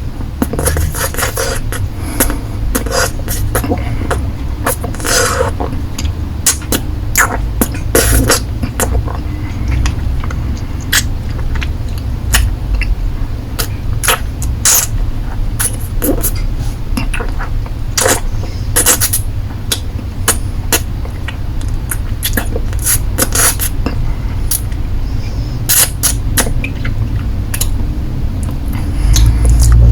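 Close-miked wet mouth sounds of a lollipop being licked and sucked: irregular smacks and clicks, some in quick clusters, over a steady low hum.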